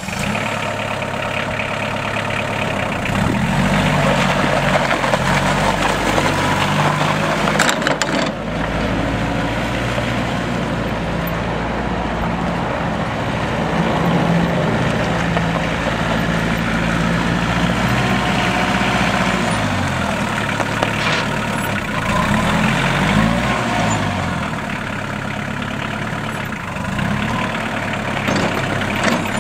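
Kioti tractor's diesel engine running, its pitch rising and falling a few times as the revs change, with a short sharp click about eight seconds in.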